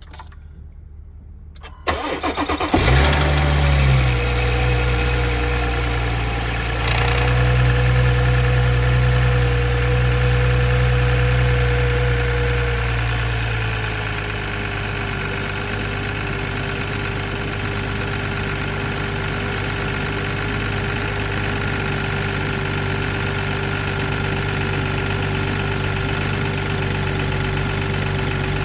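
Cold start of a BMW 440i's B58 3.0-litre turbocharged straight-six: the starter cranks briefly about two seconds in and the engine catches with a quick rev flare. It holds a fast cold idle, then about eleven seconds later steps down to a lower, steady idle. The cold start carries the rattle the owner reports.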